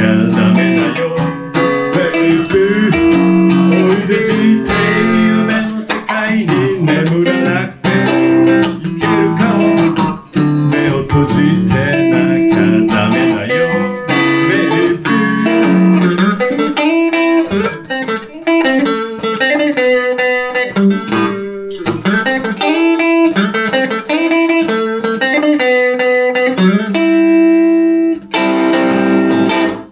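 Van Zandt Telecaster electric guitar through a Roland JC-120 amp, played solo in an instrumental passage of chords and single-note lines. It stops abruptly at the very end.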